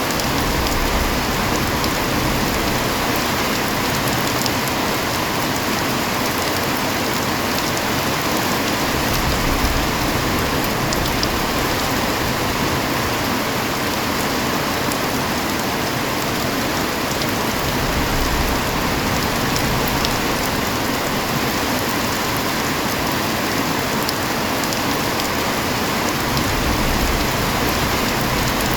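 Heavy rain falling steadily, a constant even hiss of drops with no break.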